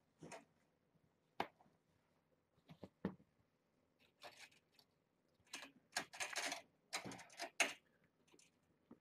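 Faint scattered clicks, rattles and short rustles of objects being handled, busiest about six to eight seconds in.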